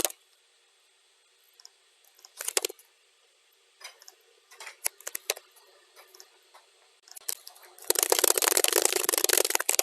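Computer keyboard typing, sped up to double speed. After a pause with a brief flurry and a few scattered key clicks, rapid continuous typing starts about eight seconds in.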